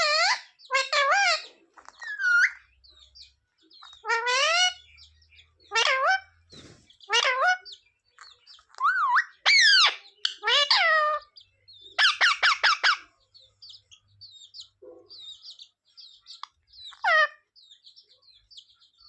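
Pet green parrot calling and chattering in short, loud bursts every second or so, its pitch swooping up and down. A quick run of rapid repeated notes comes about two-thirds of the way in, with softer little chirps after it.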